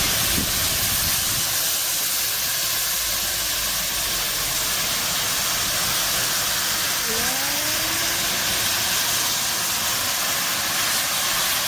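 Steam hissing steadily from the C61 2 steam locomotive, an even, unbroken hiss with a couple of faint brief gliding tones about two-thirds of the way through.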